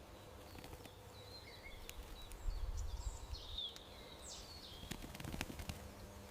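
Small backyard birds chirping, short high chirps and twitters over a steady outdoor background, with a few faint clicks near the end.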